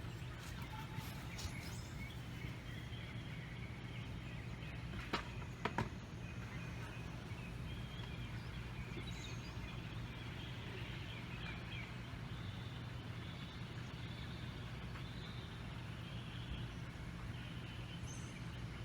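Outdoor ambience: a steady low hum with birds chirping in the background, and two short knocks about five and six seconds in.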